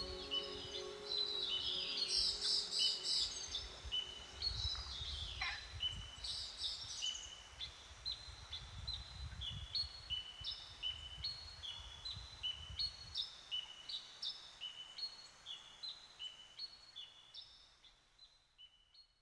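Wild birds singing, the tail of background music dying away in the first second. From the middle on, one bird repeats a high two-note phrase, the second note lower, over and over, fading out near the end.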